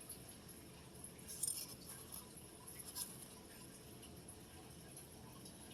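Faint handling noise: light, high clinks and jingles, with two brief sharper clinks about one and a half and three seconds in.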